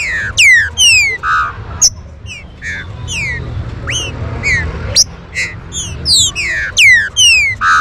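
Green-winged saltators (trinca-ferro) calling: a rapid string of sharp whistled notes that each slide quickly downward, several a second, some overlapping.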